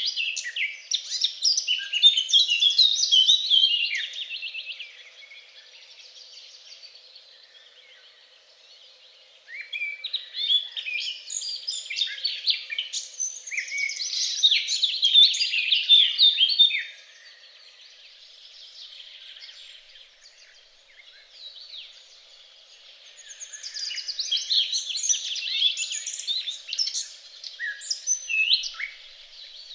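Birds singing fast runs of high chirping notes, in three bouts with quieter gaps between them.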